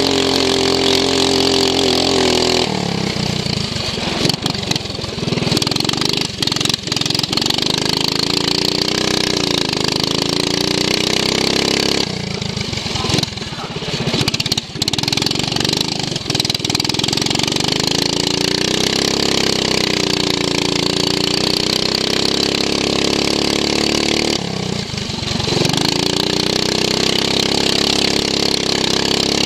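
Racing lawn mower's engine running hard, heard onboard. The revs drop sharply three times and climb back, wavering up and down in between.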